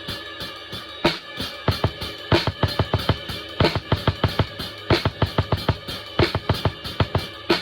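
Drum kit played in a steady groove, with bass drum and snare strikes several times a second and cymbals ringing over them.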